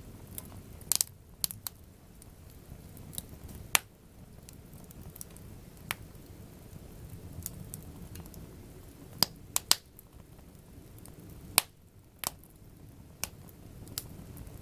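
Wood campfire crackling, with sharp pops at irregular intervals, a few of them much louder, over a steady low rush.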